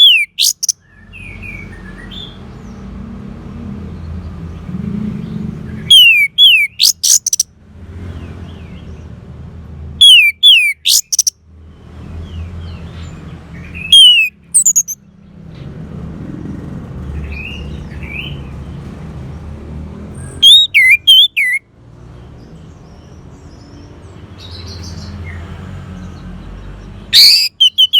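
Orange-headed thrush singing: six loud short phrases, each of quick falling whistles with higher thin notes, a few seconds apart. A steady low rumble fills the gaps between phrases.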